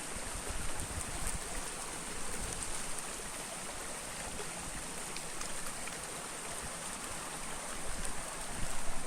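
Steady rushing noise of flowing water, like a stream, with a constant high hiss and low rumbles of wind on the microphone.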